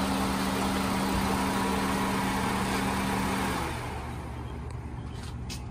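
Car engine idling under the open hood with the electric cooling fan running loudly alongside the air conditioning; about three and a half seconds in the fan and its steady hum cut off, leaving a quieter engine idle.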